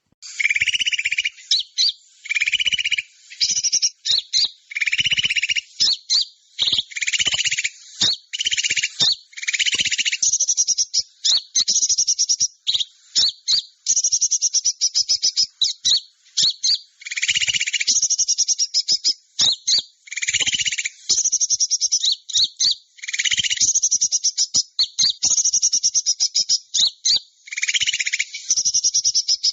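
Bird-lure call recording for small birds: rapid, high-pitched chattering and trilling calls in repeated bursts a second or two long with brief gaps, some bursts carrying a lower buzzy note.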